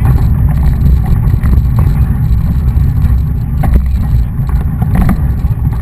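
Wind rumbling on the microphone of a camera riding along on a mountain bike, with scattered knocks and rattles.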